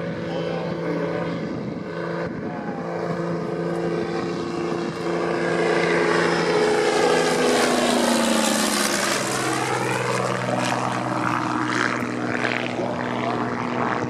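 Dornier Do-27's six-cylinder piston engine and propeller in a low flypast: the engine drone grows loudest about halfway through, its pitch dropping as the plane passes, then settles lower as it moves away.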